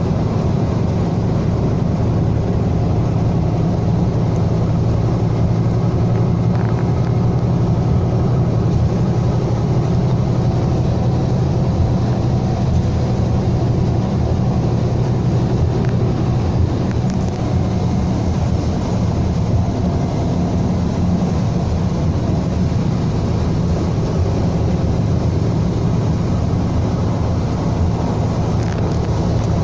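Scania K320 coach's 9.3-litre DC9 five-cylinder diesel engine running steadily under load, a low drone holding an even pitch.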